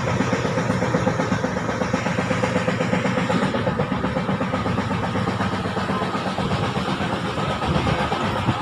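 Running noise inside a moving passenger train carriage: a steady, unbroken rumble with a fast low flutter.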